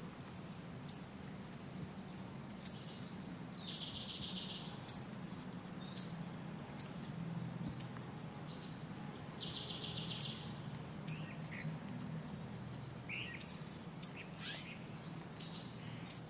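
Small birds chirping: short, high, falling chirps about once a second, with three longer buzzy trills, over a faint steady low hum.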